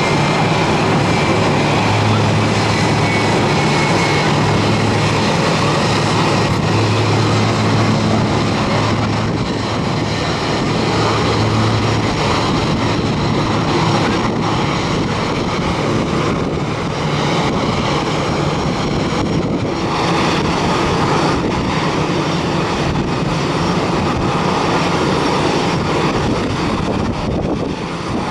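Airliner engines running loud and steady as a plane passes the airport, with wind buffeting the microphone. Steady low hum in the first half that fades after about twelve seconds.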